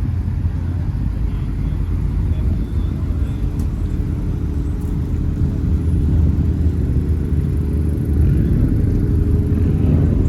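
A car engine running with a steady low rumble, growing a little louder about halfway through.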